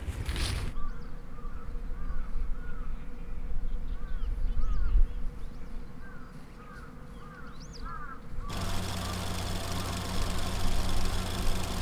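Small birds chirping over and over, with a low rumble of wind on the microphone. About eight and a half seconds in, the sound switches suddenly to a car engine running steadily at idle.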